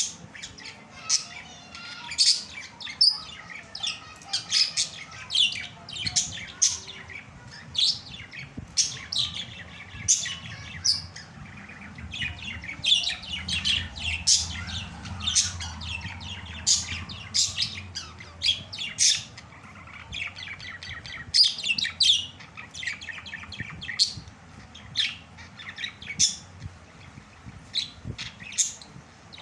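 Pet budgerigars chirping and calling, short high-pitched calls following one another every half second or so, some in quick clusters.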